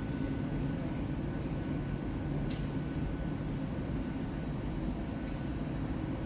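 Steady low rumble of a Boeing 777-300ER jet airliner during pushback, with a brief faint click about two and a half seconds in.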